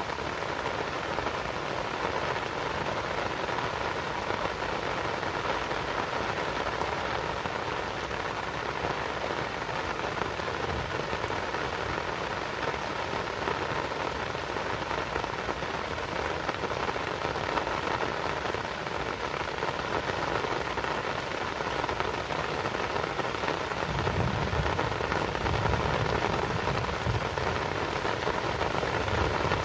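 Steady rain falling, an even, dense patter. A low rumble comes in near the end, and the rain gets slightly louder.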